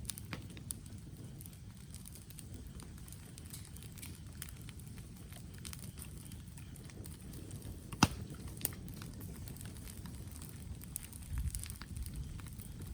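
Wood campfire crackling, with scattered small pops over a steady low background noise and one sharp, loud pop about eight seconds in.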